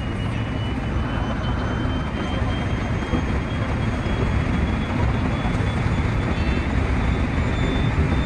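Running noise of a 223 series 2000 electric train heard from the driver's cab: a steady heavy rumble of wheels on rail, with a faint high whine that rises slowly in pitch.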